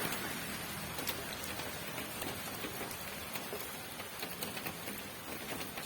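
Steady rain falling, with many separate drops tapping sharply on a hard surface over an even hiss.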